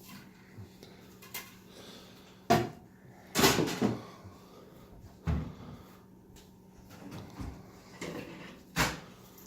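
Dishes and cupboard doors knocking and clattering while a dishwasher is unloaded and the dishes are put away. There is a sharp knock about two and a half seconds in, a longer clatter a second later, and single knocks near five seconds and near the end, over a low steady hum.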